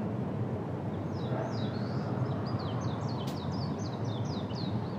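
A bird singing a rapid string of short, falling chirps from about a second in until near the end, over a steady low outdoor background hum.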